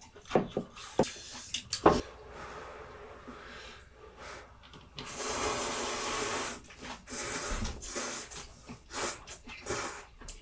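Close-miked eating of spicy ramyun noodles: wet mouth clicks and chewing, then a long noodle slurp starting about five seconds in and lasting about two seconds, then more chewing clicks.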